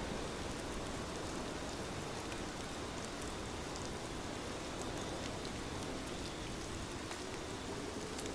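Steady rain falling on a surface, with faint scattered drop ticks. A low rumble begins to build near the end.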